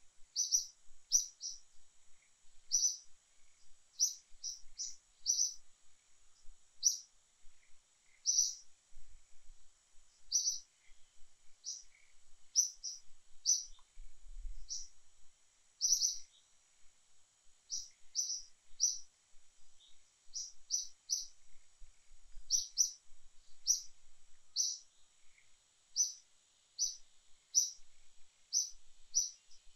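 A bird chirping: short, high chirps repeated irregularly, roughly once a second, over a faint steady high hum.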